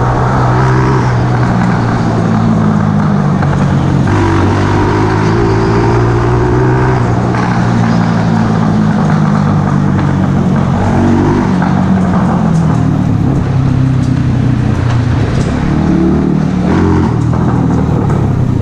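Mash Café Racer 125cc's single-cylinder engine running through a Megaton aftermarket exhaust, its pitch stepping up and down several times as the revs change.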